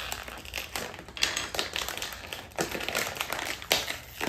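Potato chip snack bag crinkling and rustling irregularly as hands work at tearing it open, with a few sharper crackles.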